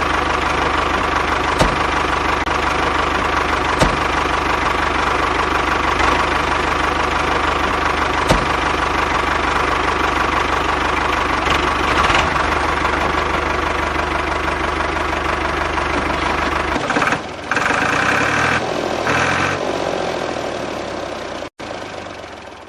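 A small motor running steadily with a constant whine and occasional clicks. About three-quarters of the way through its low hum drops out, and the sound thins and fades near the end.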